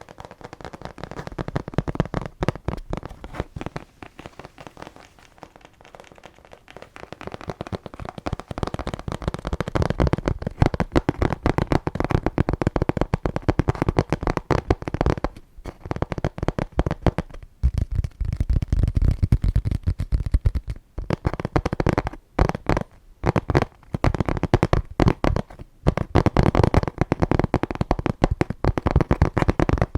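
Dense, rapid crackling and clicking from an object handled right at the microphone. It is fairly soft for the first several seconds, grows louder about seven seconds in, and stops briefly a few times.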